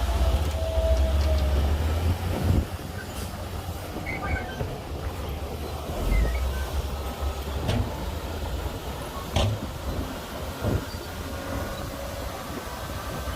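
Bulldozer working stone fill: its diesel engine runs low and steady, with a squealing whine from the tracks near the start and scattered metallic clanks and knocks.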